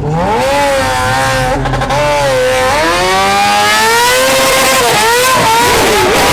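Car engine revving hard, its pitch swinging up and down again and again, with a rising hiss building toward the end.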